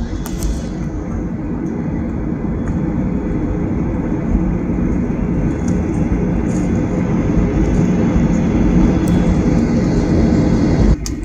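Steady low rumble of a jet airliner heard from inside the passenger cabin, growing slightly louder, then dropping off abruptly near the end.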